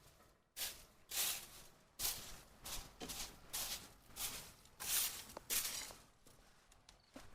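A series of short, dry rustling swishes, about one or two a second at an uneven pace.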